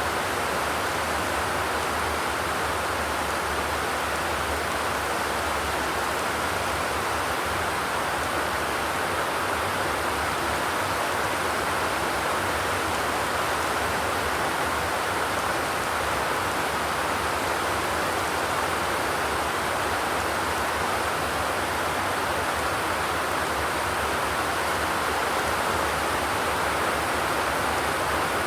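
Steady rain falling on a zinc sheet roof, an even hiss with no single drops standing out and no thunder.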